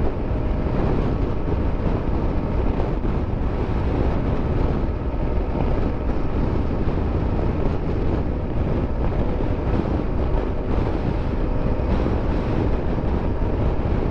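Motorcycle riding at a steady speed: the engine running under steady wind noise buffeting the microphone.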